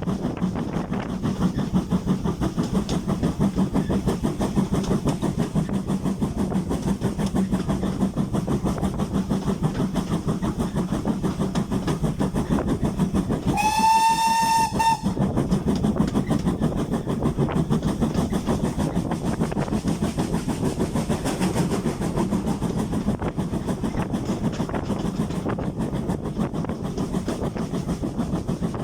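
GWR Hall-class steam locomotive 4953 'Pitchford Hall' running with its train, a steady rapid clatter throughout. About halfway through, a steam whistle sounds once for just over a second.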